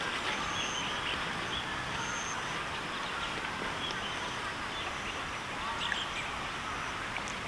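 Farm animals calling over a steady noisy background, with short high chirps scattered throughout.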